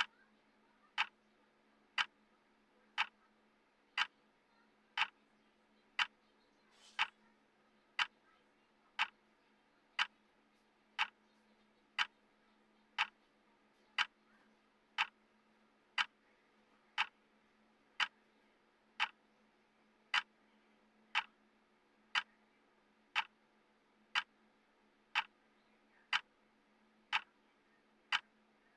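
Clock ticking steadily, one sharp tick a second: the tick sound of a countdown timer.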